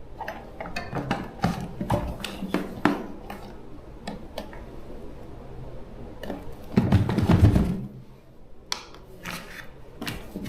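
Irregular clicks and knocks of hand tools and small parts being handled. A louder, deeper clatter lasting under a second comes about seven seconds in.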